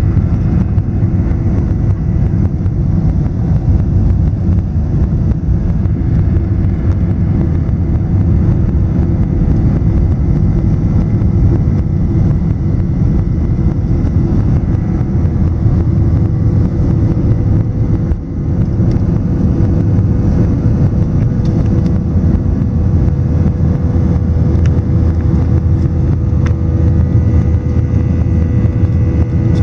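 Southwest Boeing 737's jet engines at takeoff power, heard inside the cabin: a loud steady low rumble with a steady engine whine over it, dipping briefly about two-thirds of the way through.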